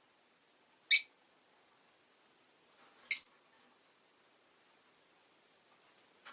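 Rosy-faced lovebirds (Agapornis roseicollis): two short, sharp, high-pitched chirps about two seconds apart.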